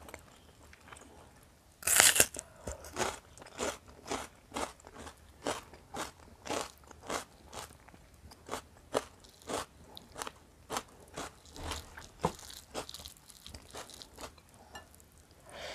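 A person biting and chewing crunchy food close to a clip-on microphone: one loud crunching bite about two seconds in, then steady crunching chews about two a second.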